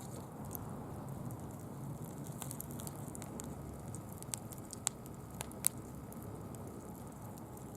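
Small bonfire of wood and fallen leaves crackling, with scattered sharp snaps over a steady low noise; two louder snaps come about five seconds in.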